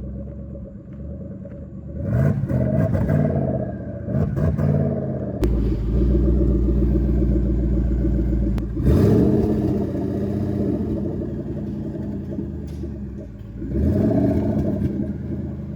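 Twin-turbocharged 2014 Mustang GT's Coyote 5.0 V8 revving hard in repeated pulls. Its pitch rises about 2 s in, again about 4 s in, again about 9 s in and once more near the end. A heavy low rumble sits under the pulls from about 5 to 9 s in.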